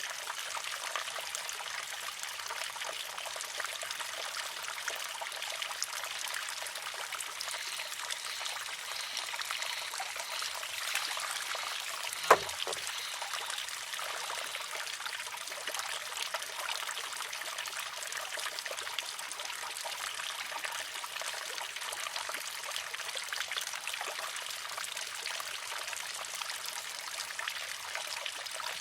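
Water trickling steadily into a wooden shishi-odoshi. About twelve seconds in, there is one sharp clack as the filled arm tips over, empties and strikes its rock.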